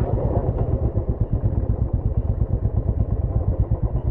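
Royal Enfield motorcycle engine running with a steady, rapid low thudding from its exhaust.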